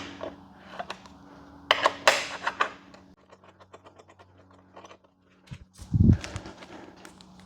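Hand-tool work on a motorcycle's rear bodywork: metal clicks and scrapes as a hex key works a grab-rail bolt, with a short rustle about two seconds in and a run of faint rapid ticks after it. A low thump comes about six seconds in, over a steady low hum.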